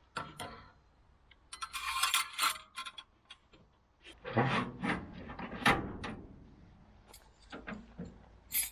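Hand-work handling noises: a series of knocks, clinks and scrapes as parts are moved and set down, with a scraping stretch about two seconds in and heavier knocks around the middle.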